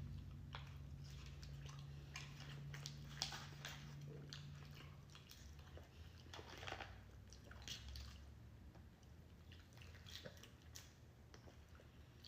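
Faint, wet chewing and mouth smacks of soul food being eaten, irregular small clicks throughout, over a low hum that stops about five seconds in.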